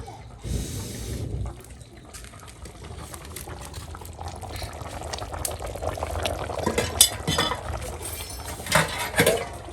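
Pot of Nile perch soup boiling, a dense bubbling crackle that builds up, with a few sharper clinks near the end as of a pot lid or spoon against the pot.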